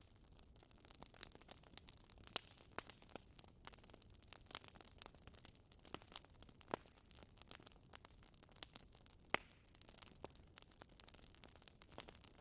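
Wood fire in a fireplace crackling: faint, irregular sharp pops and snaps over a low hiss, the loudest pop about nine seconds in.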